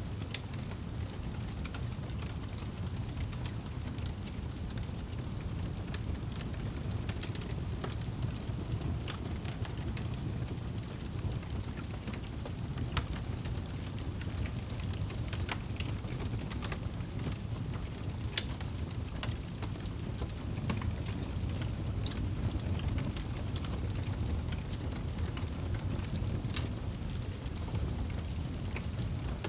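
Wood fire burning in a fireplace: a steady low rumble of flames with scattered sharp crackles and pops, a few louder than the rest.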